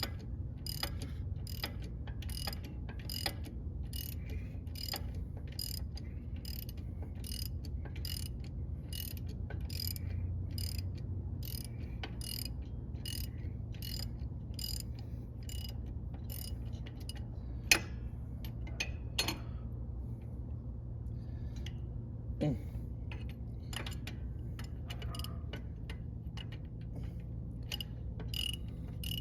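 Hand ratchet wrench clicking in a steady rhythm, about two clicks a second, as nuts are turned by hand where an impact wrench won't reach. The clicking stops for a few seconds after the middle with a couple of sharper knocks, then picks up again near the end.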